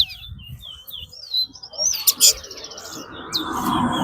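Racing songbirds singing in a song-count contest: quick, high, downward-sweeping chirps, then a loud buzzy trill about two seconds in. A low murmur of people's voices rises near the end.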